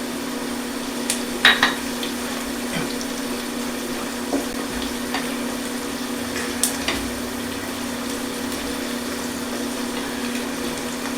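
Onion, celery and carrot sizzling steadily in a sauté pan, with a few light clicks and taps of a utensil against the pan. A steady low hum runs under it.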